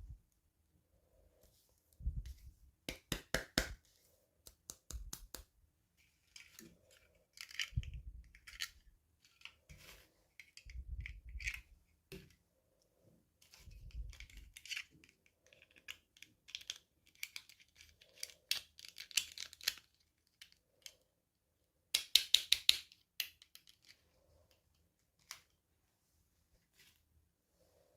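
Hands unboxing toy packaging: bursts of plastic crinkling and tearing, with clicks and soft bumps coming and going. The loudest burst is a quick run of clicks about 22 seconds in.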